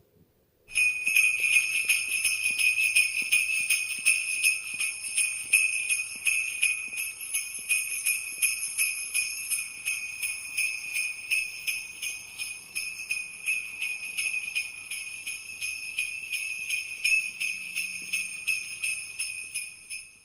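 Small jingle bells shaken rapidly and without pause in a dense, ringing jingle. It starts about a second in and stops at the very end.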